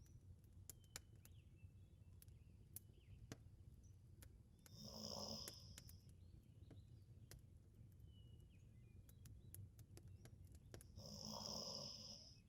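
A sleeping Labrador retriever snoring softly, with two slow breaths about six seconds apart, each lasting a second or so. Light crackles from a fireplace and a low steady hum sit under it.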